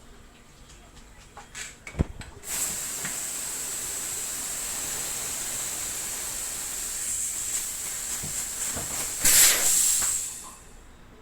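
A sharp click, then pressurised refrigerant gas hissing steadily from a valve for about eight seconds. It surges louder near the end, then cuts off.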